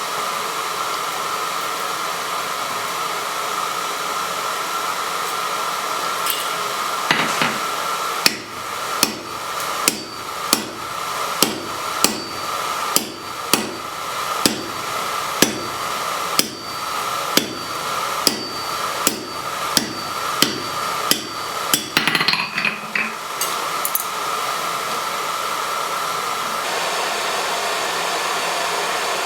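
Blacksmith's hammer striking steel on an anvil about twice a second for some fifteen seconds, each blow with a bright ring, ending in a few quicker, lighter taps. A steady rushing noise runs underneath throughout.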